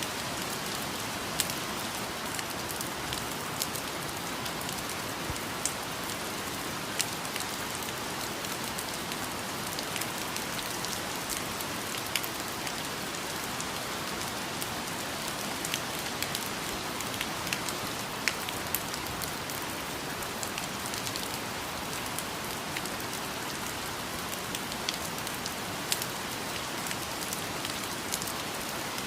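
Steady rain falling, a dense even hiss with many separate drops pattering close by.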